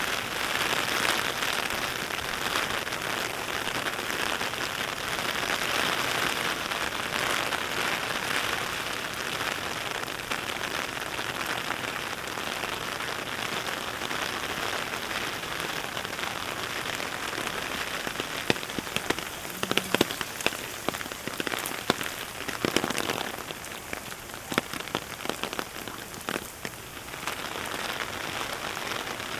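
Heavy rain falling steadily, with sharp single drops tapping close by through the second half.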